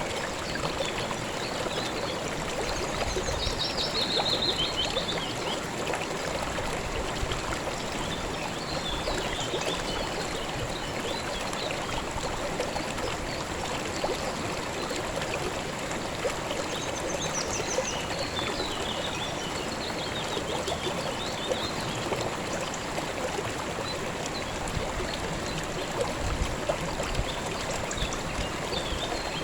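A shallow river flowing and trickling steadily over stones, with a few short, high bird chirps now and then above the water.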